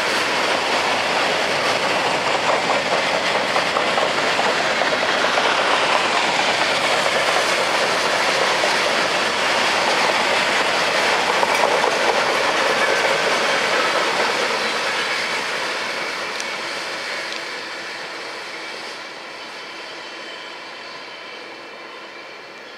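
Freight train rolling past on the rails: a steady rumble and rattle of the cars that fades away over the last several seconds as the train moves off.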